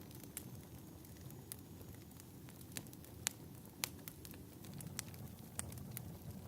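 Wood fire in a fireplace crackling: scattered sharp pops over a low steady rumble, with two louder pops a little past the middle.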